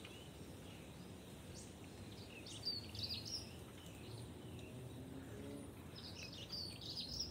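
Small birds chirping in two short bouts, one about two and a half seconds in and another near the end, over a steady low background rumble.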